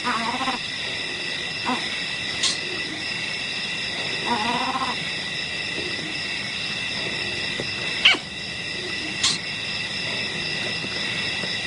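A steady high-pitched insect chorus, with two short animal calls, one at the start and one about four seconds in, and a few sharp clicks.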